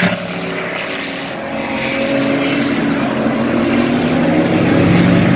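Bomber-class dirt-track race car engines running in a steady drone that dips about a second in and then grows louder.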